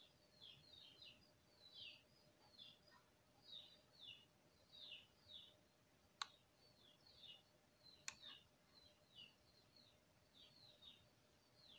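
Faint bird chirping: short, high downward chirps repeated in twos and threes. Two sharp computer mouse clicks come about six and eight seconds in.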